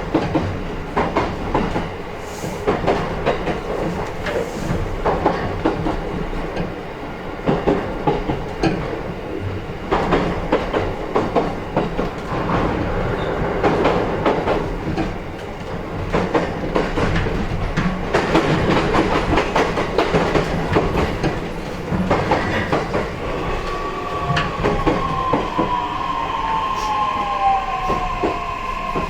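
Running sound inside an E131 series 1000 electric train's motor car: wheels clattering over rail joints with a steady rumble. In the last several seconds the traction motors give a steady whine and a second whine falling in pitch as the train slows.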